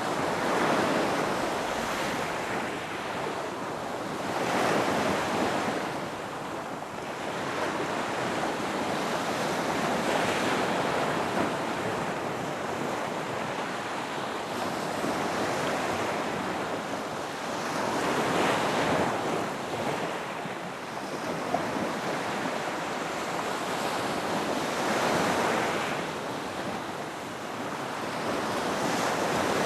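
Ocean waves breaking and washing onto a beach, with a swell of surf every few seconds rising and falling over a steady wash.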